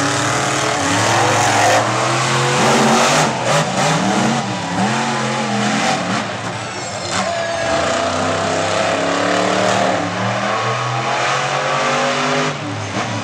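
Monster truck engines racing, their pitch rising and falling again and again as the drivers rev up and lift off.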